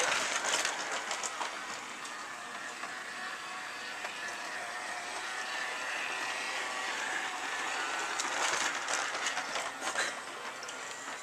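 Motorized toy train running along its track: a steady whir and rattle, with a few sharper clicks near the end.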